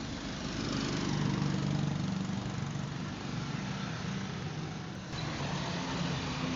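A vehicle engine running at a fairly steady pitch under a rush of wind or road noise, with an abrupt change in the sound about five seconds in.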